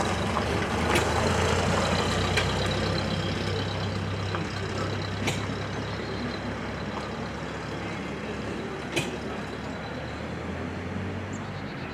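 An engine running steadily with a low hum, loudest in the first few seconds and then easing off a little, with a few sharp clicks or knocks.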